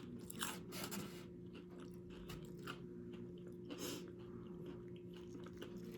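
Faint chewing of crunchy nachos: tortilla chips crunching between the teeth, with a few crisp crunches here and there, over a low steady hum.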